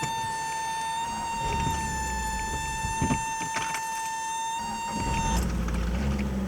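Cold start of a 1982 Toyota Corolla's 3TC four-cylinder engine. A steady high dashboard warning buzzer sounds while the engine turns over, and it stops about five seconds in as the engine catches and settles into a steady fast idle on its automatic choke.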